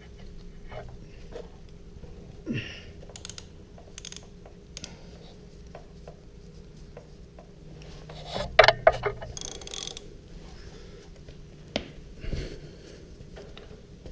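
Ratchet wrench with a deep-well socket clicking in short, uneven runs, with clinks of metal tools, while loosening an oil pressure switch. The loudest clatter comes about eight and a half seconds in.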